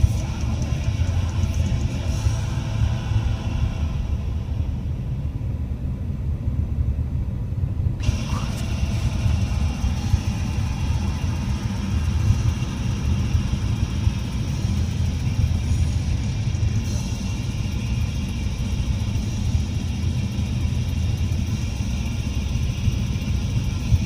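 Steady low rumble of a car's engine and tyres heard inside the moving car's cabin, with guitar-led rock music playing over it.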